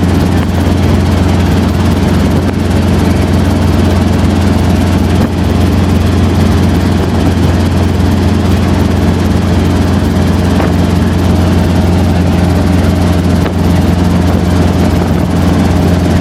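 Helicopter in flight: a loud, steady drone of rotor and engine with a low hum, unchanging throughout.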